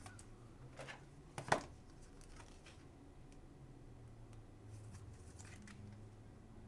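Faint room tone with a few brief rustles and clicks of trading cards being handled, the loudest about a second and a half in.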